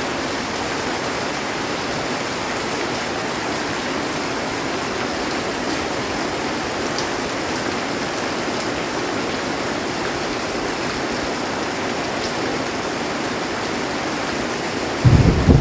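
Heavy rain drumming steadily on a metal roof. Just before the end a sudden loud low rumble of thunder breaks in.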